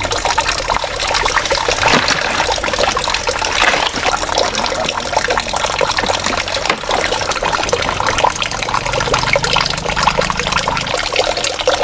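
Water trickling and splashing steadily, with many small crackling ticks.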